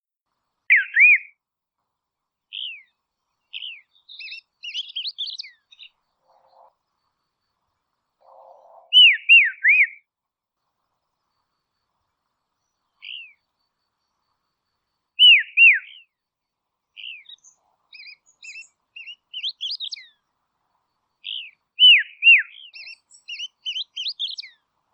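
Dusky robin singing: four phrases of two or three clear downslurred whistles, each followed by a quick run of fainter, higher twittering notes.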